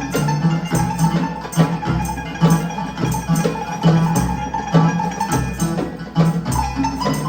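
Live band playing a rhythmic, folk-style piece, with hand percussion striking about twice a second over a steady bass.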